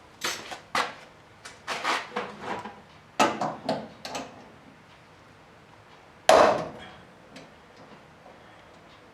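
A quick run of clicks and clatters from hand-tool work on the truck's door hardware, then a single loud bang just after six seconds in.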